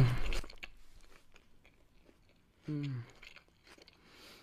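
A person chewing a big bite of burger close to the microphone, with small wet mouth clicks. It opens on the tail of a loud vocal sound, and about three seconds in there is a short hummed sound that falls in pitch.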